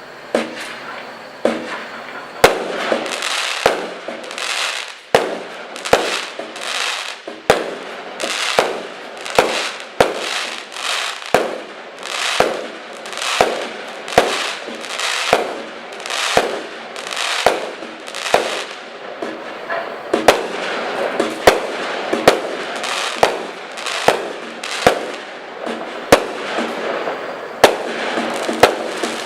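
Comet Cavalry firework going off shot after shot, with sharp bangs about every second or faster, each followed by a short rushing hiss.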